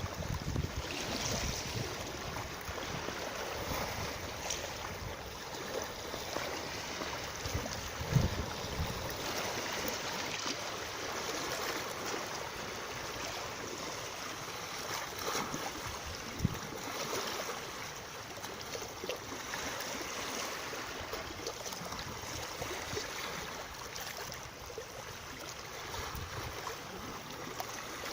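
Steady rush of moving water, with a few brief low thumps.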